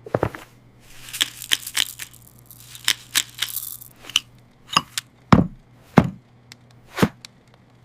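Cartoon sound effects: a quick run of sharp clicks and crackles over a steady low hum, with three heavier hits in the last few seconds.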